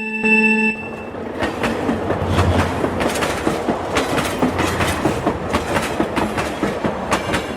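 A pulsing electronic tone cuts off about a second in, followed by a fast, irregular clattering rattle of many small clicks that runs until near the end.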